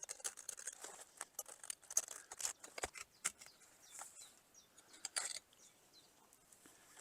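A blade cutting along a thin, cheap used mountain bike tire to trim off its sidewall: irregular small scrapes, clicks and rubbery rasps, busier for the first five seconds or so, then sparse and faint.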